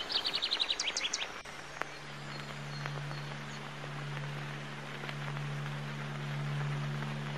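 A bird's quick run of high chirps for about the first second, then, from about two seconds in, a low steady drone of two held notes.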